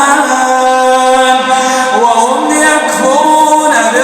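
A man's voice chanting Quran recitation in the slow melodic tajwid style, holding long drawn-out notes and gliding between pitches, unaccompanied.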